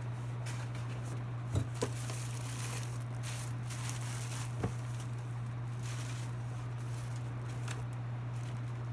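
Fan parts and packaging handled during unboxing: faint rustling and crinkling with a few short knocks, two close together about one and a half seconds in and one near the middle, over a steady low hum.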